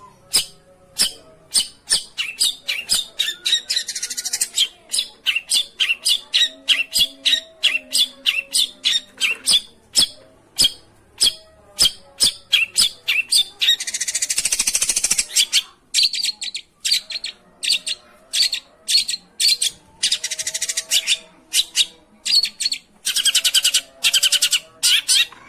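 Long-tailed shrike (pentet/cendet) calling: sharp, rapid chirps two or three a second, broken several times by longer harsh chattering bursts.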